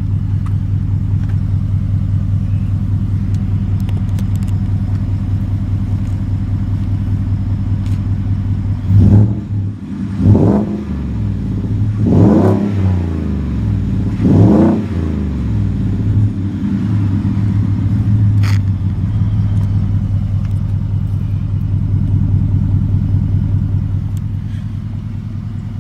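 2018 Ford F-150's engine through a Magnaflow dual exhaust and cold air intake, idling steadily, then revved four times in quick succession about nine to fifteen seconds in before settling back to idle.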